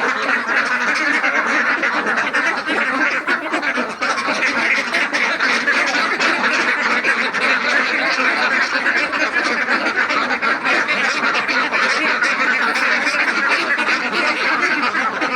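A flock of Khaki Campbell ducks quacking all together: a dense, continuous chorus of overlapping calls with no pauses.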